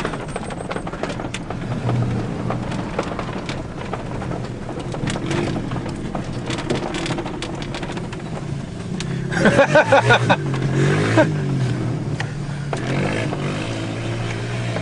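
Motor vehicle engine running steadily, with a louder stretch about two-thirds in where the pitch rises and falls.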